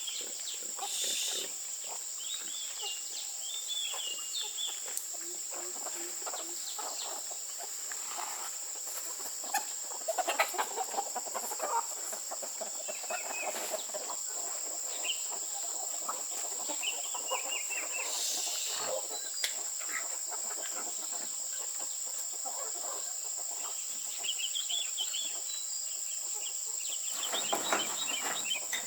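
Chickens clucking, with short chirping calls over a steady high-pitched drone.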